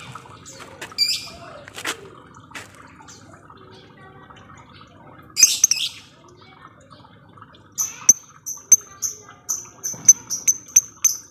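Lovebird calling: a few scattered chirps and a harsh squawk, then a run of short, sharp, high chirps repeating several times a second, the rapid 'ngetik' ticking call, quickening near the end.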